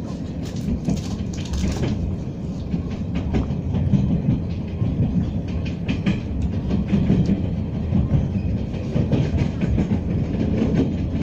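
Moving passenger train heard from inside the carriage: a steady low rumble of the wheels running on the rails, with scattered short clicks and rattles.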